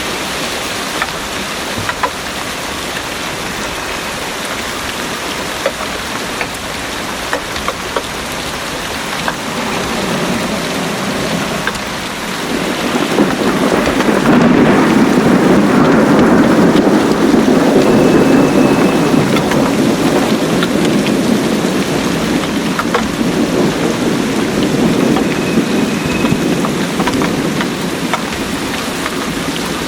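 Heavy rain falling steadily. About twelve seconds in, a long low rumble of thunder swells up and rolls on for most of the rest, slowly easing off.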